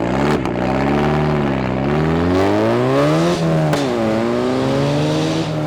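A tuned car's engine revving as it pulls away, its pitch climbing and falling several times, with a sharp drop about three and a half seconds in.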